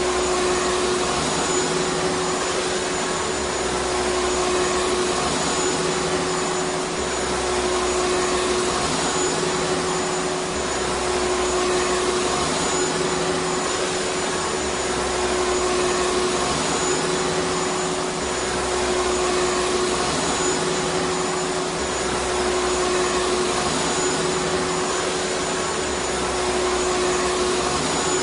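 Vacuum cleaner motor running continuously: a steady whooshing rush of air with a constant hum. A faint low swell recurs every three to four seconds.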